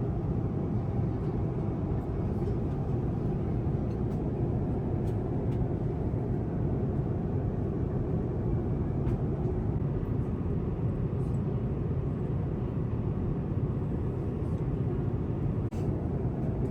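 Steady cabin noise of an Airbus A350-1000 airliner in flight: an even low rush of engines and airflow, with a few faint light clicks.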